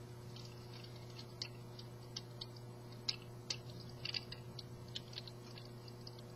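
Irregular small plastic clicks and snaps from a Transformers action figure's parts being folded, turned and pegged into place during transformation, a few ticks each second with some sharper snaps.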